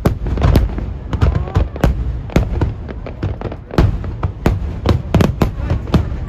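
Aerial fireworks shells bursting in quick, irregular succession, several sharp bangs a second over a continuous low rumble.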